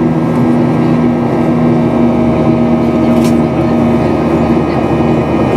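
Steady engine and airflow noise inside the cabin of a Boeing 737-800 with CFM56-7B turbofans: a loud, even rush with a steady low hum of several tones underneath.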